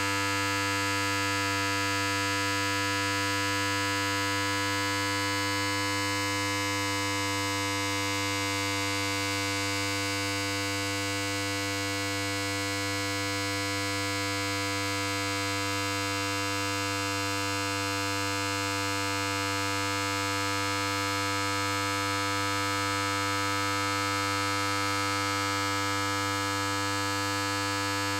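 Electric hair clipper running with a steady, unchanging buzz: a strong low hum under a bright, hissy whir.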